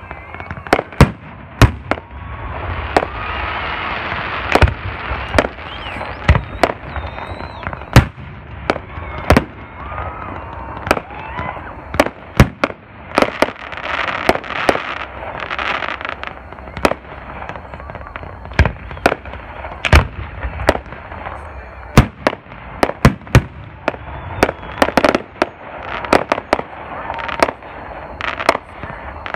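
Aerial fireworks show: shells bursting overhead in a quick, irregular string of sharp booms, some a second or two apart and others close together. Around the bangs come stretches of hissing and crackling as the crackle and glitter stars burn.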